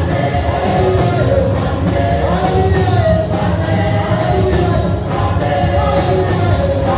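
Amplified live worship music: singers with a band, a sung melody over a steady bass and drums.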